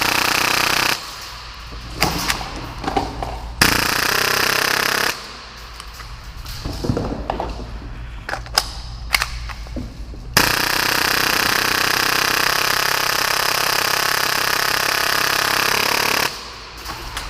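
Full-auto Tokyo Marui Hi-Capa airsoft pistol, tuned to about 30 rounds a second, firing in three bursts. A short one ends about a second in, a second lasts about a second and a half, and a long burst of about six seconds comes near the end. Scattered clicks and knocks fill the gaps between bursts.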